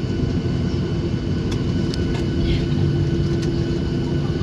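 Steady cabin noise inside a Boeing 737-800 taxiing after landing, its CFM56-7B engines running at low taxi thrust: an even rumble with a steady hum and a few faint clicks.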